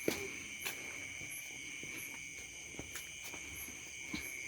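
Crickets trilling steadily in a chorus, two high unbroken tones with shorter, higher chirps repeating over them. A few sharp clicks cut in, the loudest just after the start.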